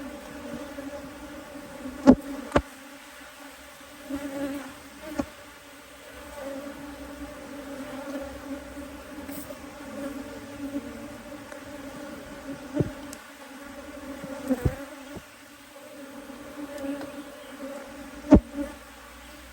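A honeybee colony in an open hive buzzing steadily, with several sharp knocks through it, the loudest about two seconds in and near the end.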